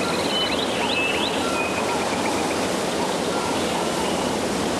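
Steady rush of a waterfall, with birds calling over it: short whistled notes throughout and a few quick rising chirps in the first second or so.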